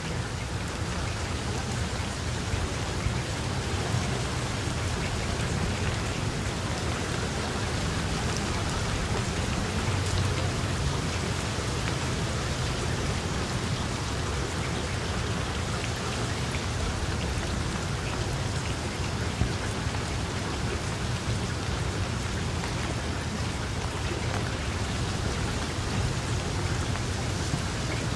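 Steady rain falling, an even hiss of drops with a low rumble beneath.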